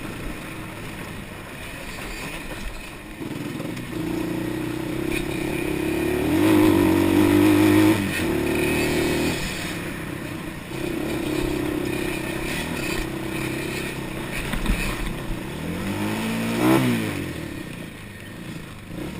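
Off-road motorbike or quad engine being ridden, running through the gears with the revs climbing and easing. It rises strongly about six to eight seconds in, then gives a quick sharp rev-and-fall near the end.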